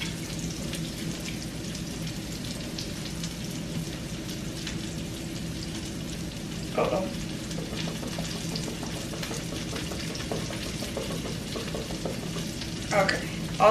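Steady sizzle of diced onion and serrano chile frying in a pan, with liquid from a can of corn trickling out into a stainless steel sink.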